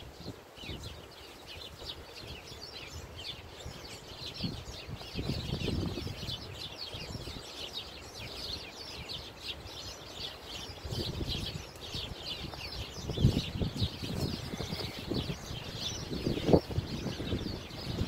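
A flock of small birds chirping continuously in rapid, overlapping calls, with uneven low rumbles and a few dull thumps that grow louder toward the end.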